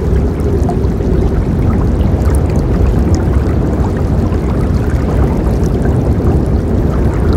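River water rushing steadily, a constant deep rush of flowing water with small splashes sparkling above it.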